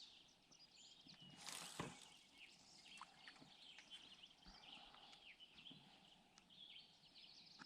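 Faint songbirds chirping and whistling in many short, quick calls, with a brief rush of noise about a second and a half in.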